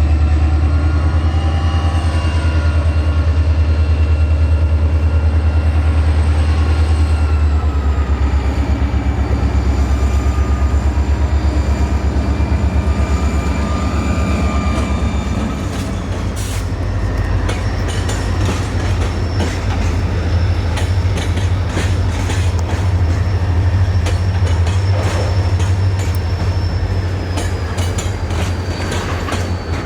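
A train passing: a loud, heavy low rumble with high squealing tones slowly sliding in pitch from the wheels. About halfway through the rumble eases and a rapid run of clicks from wheels over the rail joints takes over.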